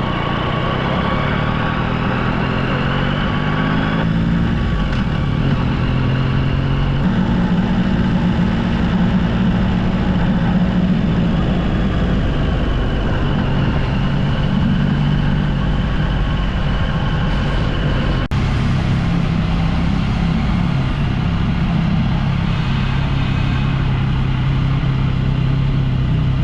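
Yamaha XSR900's three-cylinder engine running at low speed, its note stepping up and down a few times with the throttle.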